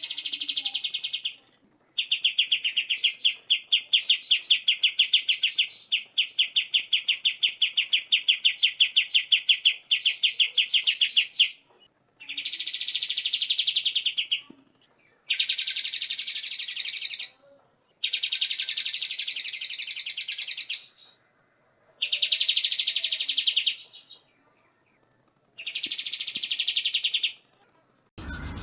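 Songbird singing in loud chattering phrases: first a long run of fast, evenly repeated notes, then several separate buzzy trills of two to three seconds each with short gaps between them. A different, louder sound cuts in right at the end.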